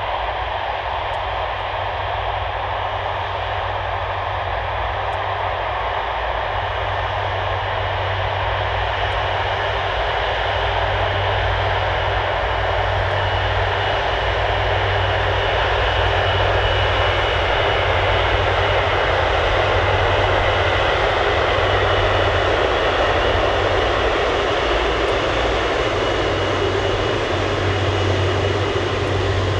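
Jet noise from the Rolls-Royce Trent 700 turbofans of an Airbus A330-300 airliner. It is a steady, dense roar with a thin high whine, growing slowly louder to a peak about two-thirds of the way through.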